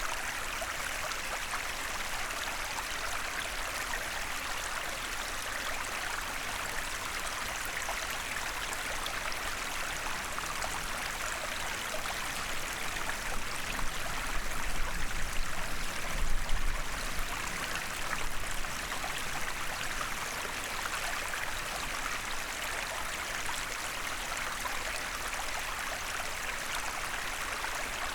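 A small forest stream running steadily, an even rush of flowing water. About halfway through, a few low rumbling bumps rise briefly above it.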